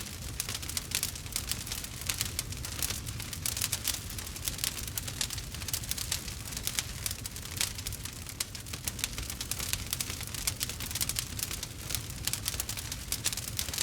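Campfire crackling: many quick, irregular snaps and pops over a low steady rumble.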